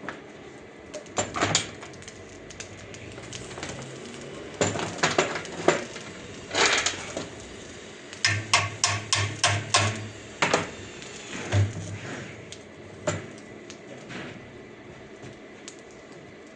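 Metal parts knocking and clanking against each other, scattered single strikes, with a quick run of about eight knocks around the middle.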